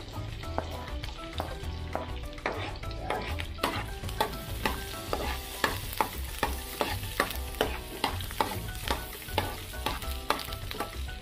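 Sliced onion and garlic sizzling in hot oil in a frying pan while a metal spoon stirs them, knocking and scraping against the pan many times. The sizzle grows louder about four seconds in.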